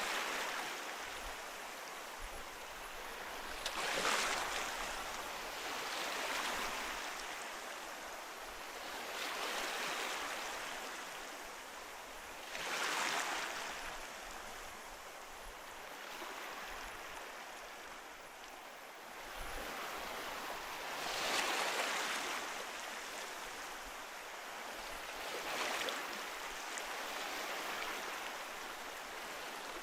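Ocean waves breaking on the shore: a steady wash of surf that swells into a louder crash every few seconds and then recedes, some waves stronger than others.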